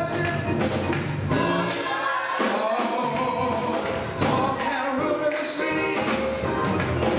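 Gospel choir singing with instrumental accompaniment and a steady percussion beat.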